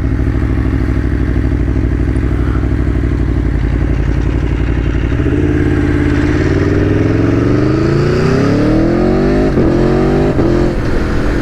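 Aprilia Tuono V4 1100's V4 engine running at low, steady revs for about five seconds, then accelerating hard with rising revs and two quick upshifts near the end.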